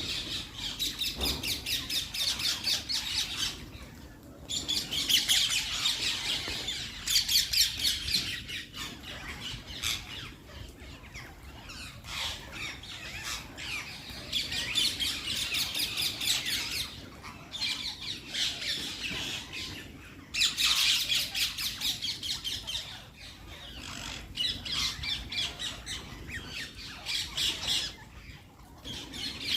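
Parrot calling in repeated runs of rapid, harsh squawks, each run a few seconds long with short pauses between.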